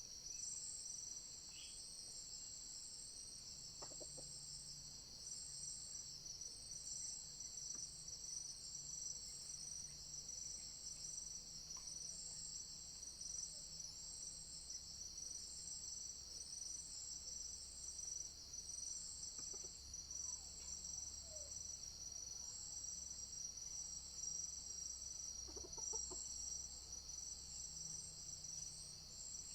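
A steady, high-pitched chorus of forest insects pulsing about once a second, with a few faint junglefowl clucks and calls a few seconds in, around twenty seconds in and near the end.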